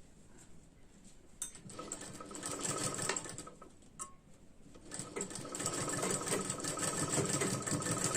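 Sewing machine stitching in two runs, the first starting about two seconds in and a longer second run about a second after it stops, with a few clicks before and between. It is sewing down a folded fabric strip for a blouse belt.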